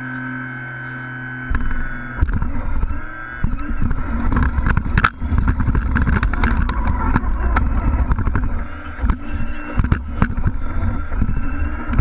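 Engine sound from a scale RC truck: a steady drone that turns rougher and louder about a second and a half in, its pitch wavering up and down, with many short clicks and knocks.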